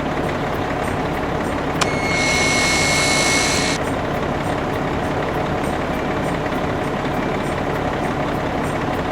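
Cartoon sound effect of a JCB-type construction vehicle's engine running steadily. About two seconds in, a click starts a high hiss that lasts about two seconds and then cuts off.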